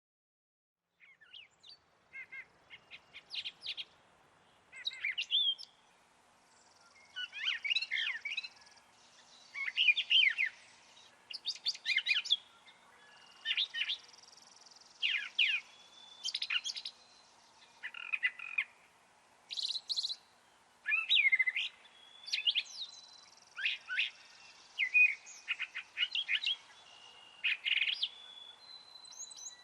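Songbirds chirping and singing in short, repeated phrases, one every second or two, with some held high notes between them, over a faint steady rush.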